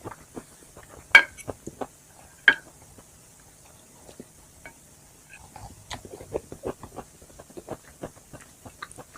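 A person eating chicken wings close to the microphone: two sharp clinks of dishes or utensils about a second apart early on, then a quick run of small chewing and crunching clicks in the second half.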